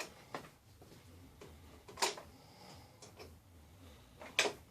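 Three short sharp clicks or knocks about two seconds apart at a partly dismantled Kirby upright vacuum, with no motor running: the vacuum fails to start.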